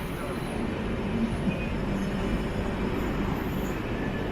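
Steady rumble and rattle of an LHB passenger coach's wheels running on the rails as the electric-hauled express picks up pace after joining the main line, with a couple of small knocks about a second and a half in.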